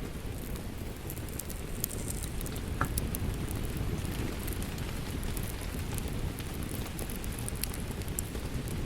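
Wood fire crackling, with scattered sharp pops, over steady rain and a low rumble.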